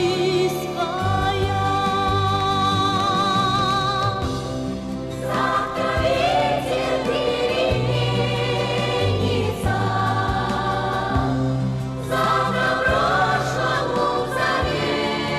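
Music: a choir singing long held notes with vibrato, without words, over a steady bass accompaniment.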